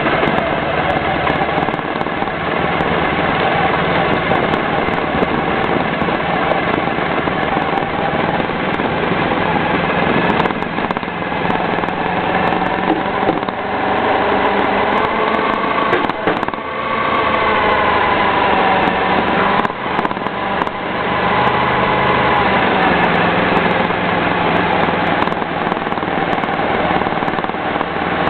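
Honda ST1100 Pan European's V4 engine running at low speed under an onboard microphone, mixed with road and wind noise; its pitch rises and falls gently around the middle, with a few short knocks along the way.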